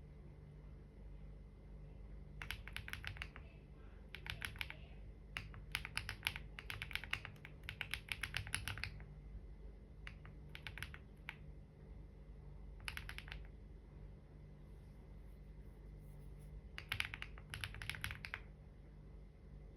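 Typing on a computer keyboard in short bursts of rapid key clicks, with pauses of a second or more between them.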